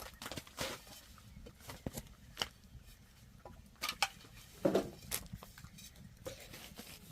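Scattered light clicks and knocks at irregular intervals, the loudest about four and a half seconds in.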